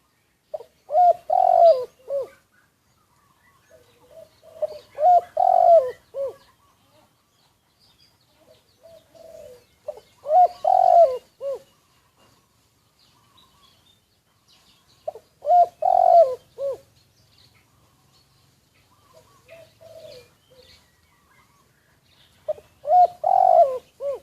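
Caged spotted doves cooing: five loud phrases of several short coos, one about every five seconds, with two quieter phrases in between.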